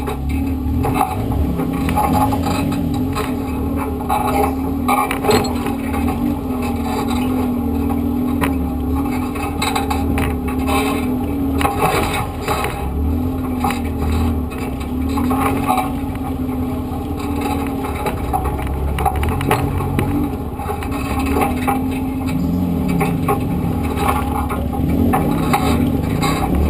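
Suzuki Samurai's four-cylinder engine running at low revs under load while crawling through a creek bed, its pitch rising and falling as the throttle comes and goes. Scattered knocks and scrapes are heard throughout.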